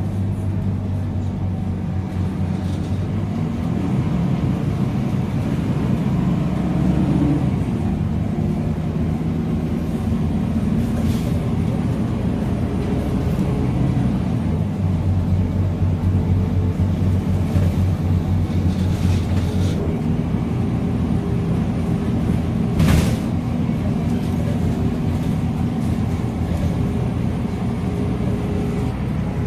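Scania K310UA articulated city bus under way: the diesel engine runs steadily over road noise, its pitch rising and falling as the bus pulls away, changes gear and eases off. There is one sharp knock late on.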